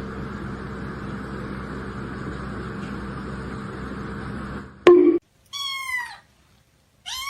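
A steady hiss with a faint hum for about four and a half seconds, ending in a brief knock. Then a cat meows twice: one short meow falling in pitch, and another starting near the end.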